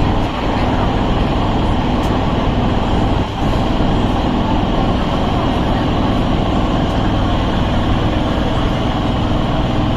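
Electric suburban train (EMU) running along the track: a loud, steady rumble of wheels and motors with a low hum, dipping briefly twice.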